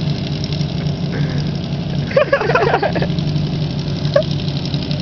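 Riding lawn mower engine running steadily, a low even drone.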